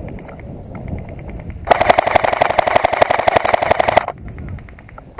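Airsoft rifle firing a rapid full-auto burst of about two and a half seconds, close by, starting about a second and a half in. Fainter full-auto airsoft fire from farther off before and after it.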